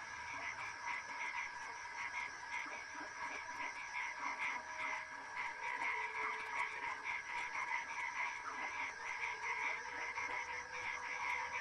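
A dense chorus of frogs calling, many overlapping rapid croaks and chirps that run on steadily.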